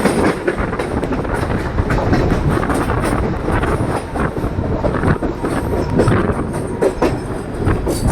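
Suburban local train running at speed: continuous wheel-on-rail rumble and rattle, with frequent sharp clicks and clatter over the track.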